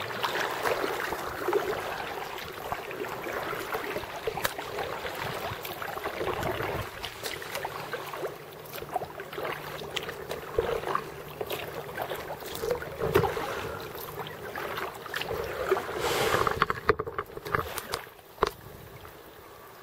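Water splashing and sloshing around a kayak, with scattered knocks and clicks against the boat.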